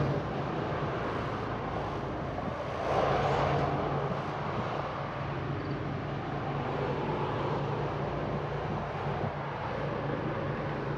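Semi-truck engine and road noise heard from inside the cab, a steady drone with a low hum that swells briefly about three seconds in.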